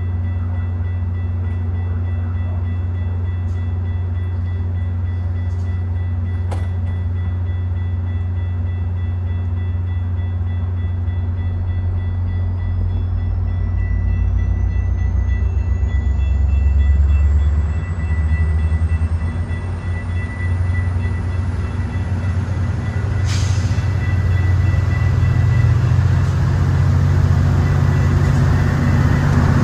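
Diesel train running with a steady low engine rumble. From about twelve seconds in, a high whine climbs steadily in pitch and the sound grows louder, as the train accelerates. Two sharp clicks, one near the middle and one late on.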